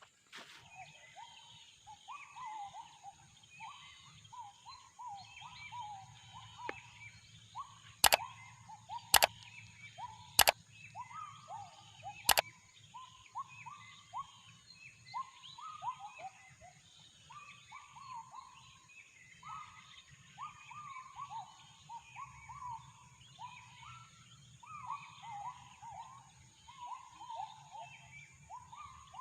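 Wild gibbons (uwa-uwa) calling in long runs of repeated sweeping notes, with birds chirping higher up and a steady high whine. Four sharp clicks about a third of the way in are the loudest sounds.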